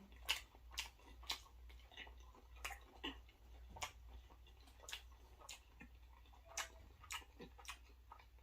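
A person chewing creamy pasta with shrimp and chicken close to the microphone: faint, wet mouth clicks and smacks that come irregularly, about one or two a second.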